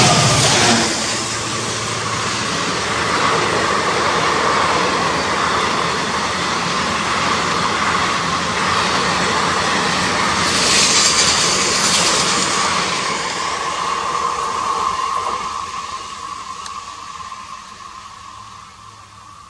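Express passenger train passing close by at speed. The diesel locomotive's engine drone dies away in the first second, then the coaches make a steady rush of wheels on rail, with a louder burst about eleven seconds in. Over the last few seconds the sound fades as the train recedes.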